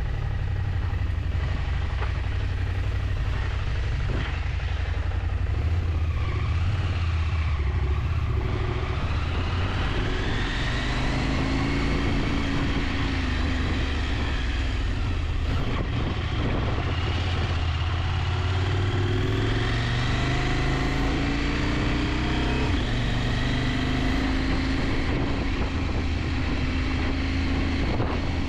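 KTM 890 Adventure's parallel-twin engine running at riding speed over a steady low rumble. Its pitch rises and falls as the revs change, most clearly from about a third of the way in.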